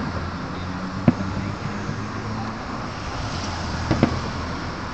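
Road traffic with engines running under a steady outdoor din, cut by sharp firework bangs: one about a second in, and two close together near the end.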